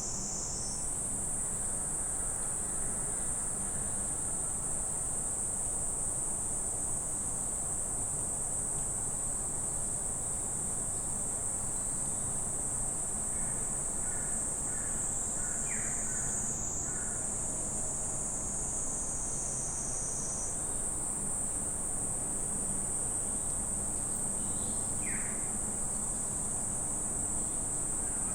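Steady, high-pitched insect chorus in a summer forest, its pitch shifting slightly a few times, with a few faint short bird chirps partway through.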